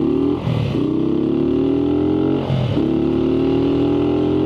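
Motorcycle engine accelerating away, its pitch climbing through the gears with two upshifts, about half a second and about two and a half seconds in.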